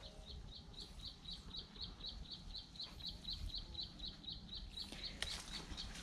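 A small bird repeating one short high note about four times a second, steady in pitch and pace, with a few faint clicks near the end.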